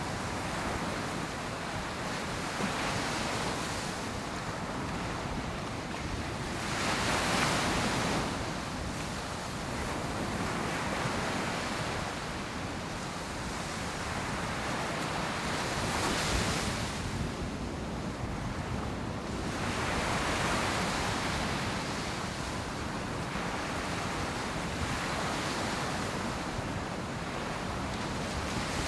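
Ocean surf breaking on a beach: waves crash and wash in swells every few seconds, with some wind noise on the microphone.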